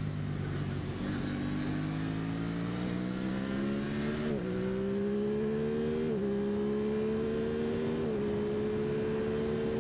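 2023 Aprilia Tuono 660's parallel-twin engine accelerating under load, its pitch climbing and dropping at three upshifts, with wind noise over it.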